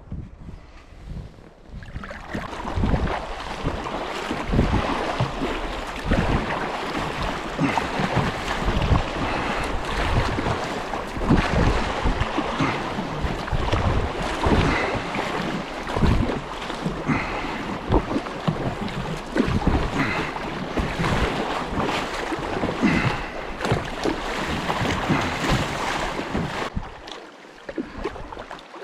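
Wind buffeting the microphone in repeated low gusts over a steady rush of river water around a kayak. It starts up about two seconds in and eases off near the end.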